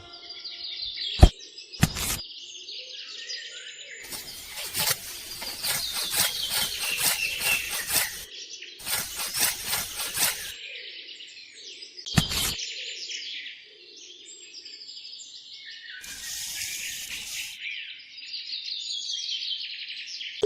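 Small birds chirping and twittering continuously. Several seconds-long bursts of scraping noise come in and out, with a few sharp knocks.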